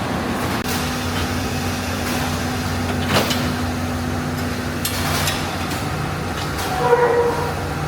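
Automatic food-packaging machinery running with a steady hum, with a sharp knock about three seconds in, a clatter around five seconds, and a brief squeal near the end.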